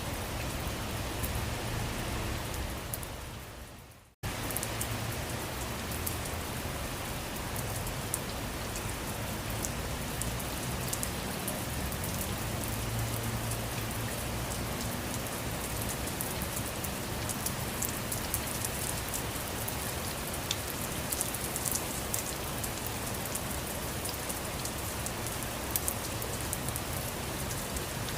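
Steady rain falling, a dense hiss with individual drops ticking through it. About four seconds in it fades out to silence and then cuts straight back in at the same level.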